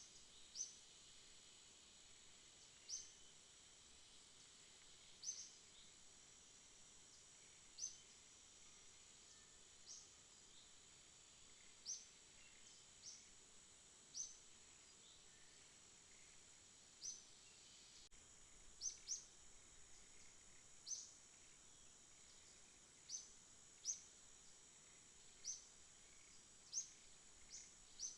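Faint night insect chorus: a steady high-pitched drone, with short high chirps repeating irregularly every one to two seconds, some in quick pairs.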